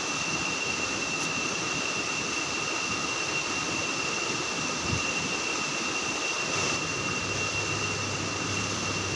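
Steady forest ambience: an even rushing noise with a constant high-pitched drone over it.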